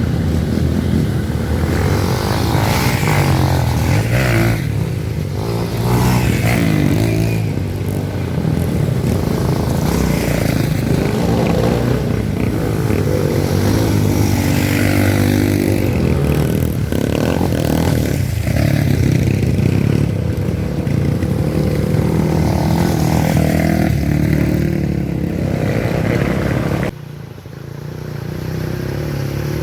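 Off-road trail motorcycle engine running and revving, its pitch rising and falling. Near the end the sound drops suddenly, then builds again.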